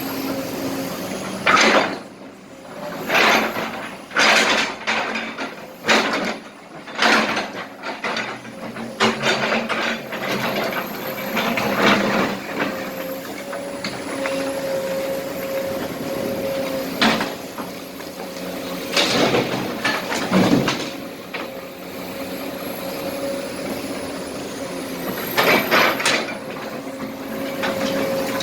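Kobelco SK200 excavator's diesel engine running steadily, with repeated loud clattering rushes as loads of broken asphalt and small rocks pour into a truck bed, about a dozen spread irregularly and fewer in the middle stretch.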